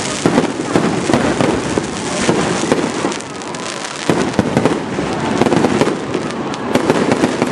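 Aerial fireworks bursting: a dense, continuous crackle of many rapid pops and bangs, easing briefly about three seconds in.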